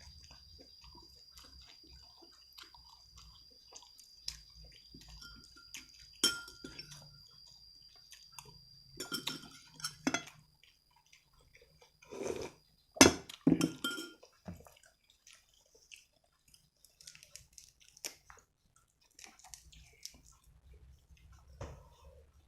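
Mukbang eating sounds: dishes and utensils clinking and knocking, with chewing, louder in two clusters partway through. A faint steady high whine runs under most of it and fades out about three-quarters of the way in.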